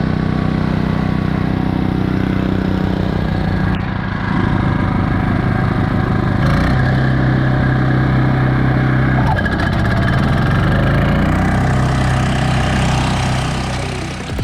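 Small petrol engine of a grass-cutting machine running under load, its pitch stepping up about six seconds in and shifting again a few seconds later.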